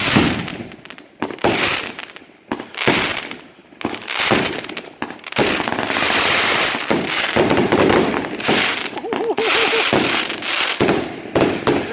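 A multi-shot firework cake fires a barrage of loud bangs: separate reports at first, then a dense run of shots from about halfway through to near the end.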